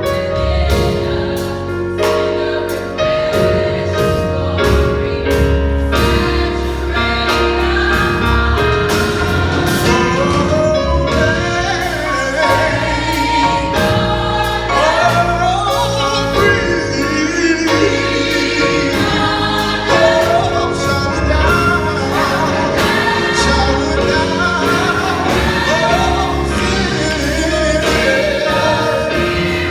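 High school gospel choir singing in harmony over band accompaniment, with a deep bass line and regular drum hits keeping a steady beat.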